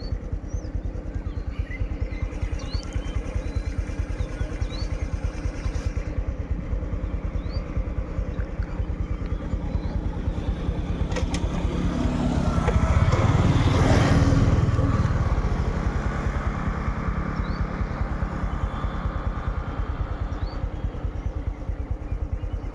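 A motor vehicle engine running steadily, with a louder vehicle passing by, loudest about two-thirds of the way through.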